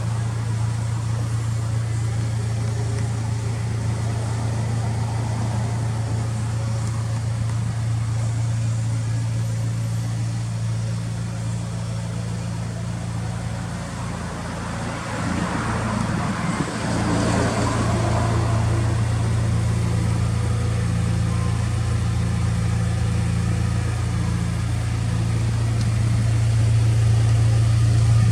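Honda Civic Type R engine idling steadily through a FEEL'S aftermarket muffler, a low, even hum. About halfway through there is a brief noisy patch, and it is slightly louder after it.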